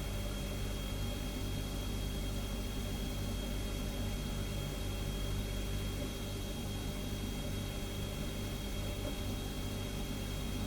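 Refrigerator humming steadily: a low, even drone with a faint high whine on top.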